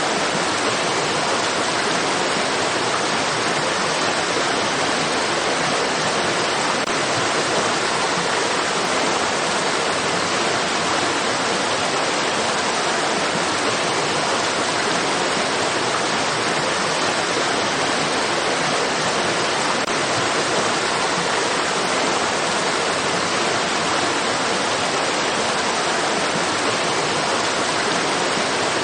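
Water of a stream rushing in a steady, unbroken flow.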